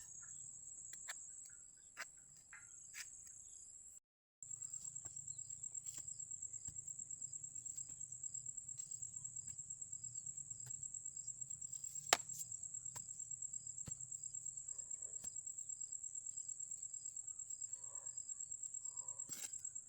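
Crickets trilling, a steady high-pitched chirring that pulses rapidly. Scattered sharp clicks and knocks sound over it, the loudest about 12 seconds in, and the sound cuts out briefly about 4 seconds in.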